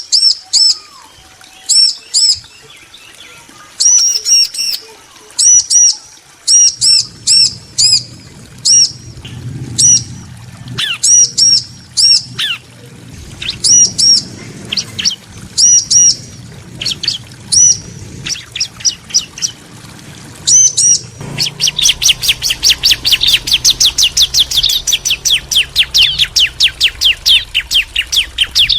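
Bar-winged prinias (ciblek) calling back and forth: short, high, loud chirps repeated in pairs and short runs, breaking into a fast continuous series of chirps about two-thirds of the way through.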